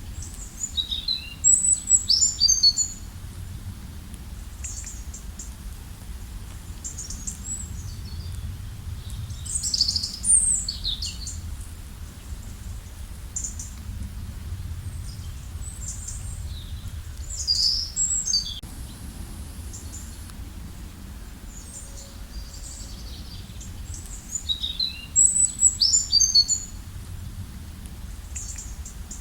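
Songbirds singing high, quick chirping phrases, four bursts a few seconds apart, over a steady low background rush of flowing water.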